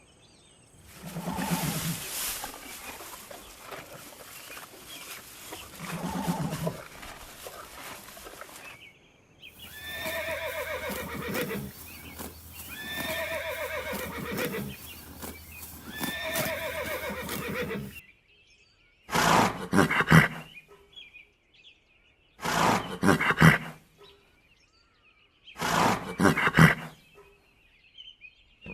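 Horse whinnying three times, each call falling in pitch, after a stretch of breathy noise. Then three short, loud, breathy bursts a few seconds apart.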